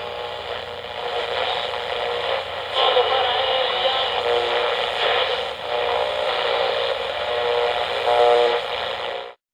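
Train sound effect in a narrow-band old radio broadcast recording: a train running, which cuts off suddenly near the end.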